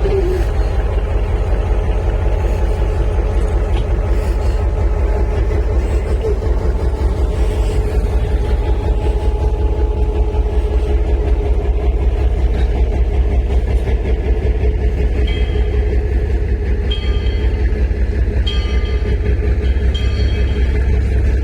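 A train locomotive running with a steady low rumble. In the last several seconds a series of short high tones repeats over it.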